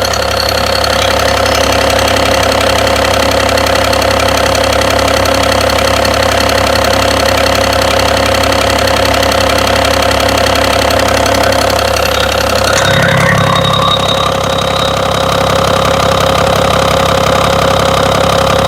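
BMW engine running at idle with a knock from inside the engine. The note shifts slightly about two-thirds of the way through.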